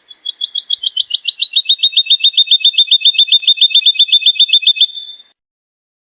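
Woodlark singing: one long trill of rapidly repeated liquid notes, about eight a second, dropping slightly in pitch early on and then holding steady before stopping about five seconds in.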